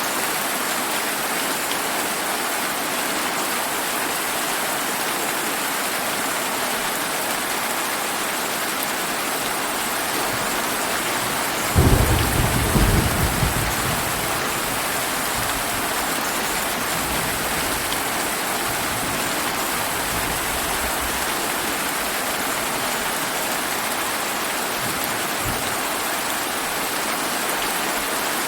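Steady summer rain falling, with one sudden loud clap of thunder about twelve seconds in that rumbles off over a couple of seconds.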